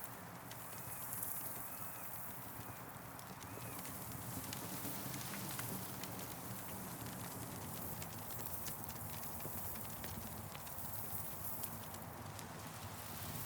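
Campfire crackling, with irregular sharp pops and snaps over a steady low rushing of the burning fire.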